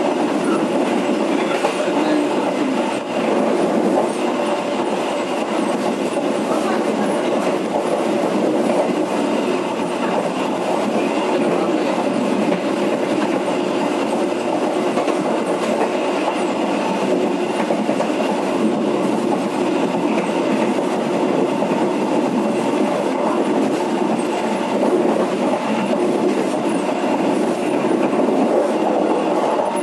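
Steady running noise of a moving passenger train, its wheels rumbling along the rails, heard from the rear window of the last carriage.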